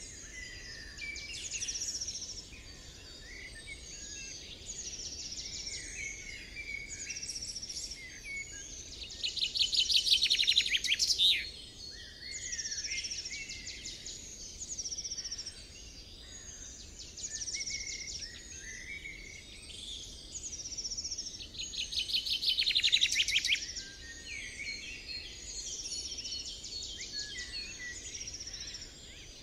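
Several songbirds singing and calling at once, a busy chorus of short, varied chirps and phrases. A louder, rapid trill stands out twice, about a third of the way in and again about three-quarters through.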